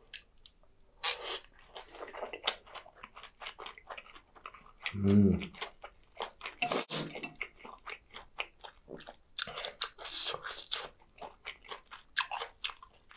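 A person chewing a mouthful of spicy chicken feet in soup and seaweed rice ball, close to the microphone: wet chewing with crisp crunches. A short low hum from the throat comes about five seconds in.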